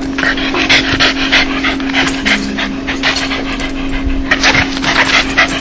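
Dog panting quickly and rhythmically, about four short breathy pants a second: the open-mouthed huffing that is offered as a dog's happy 'laugh'. A steady low hum runs underneath.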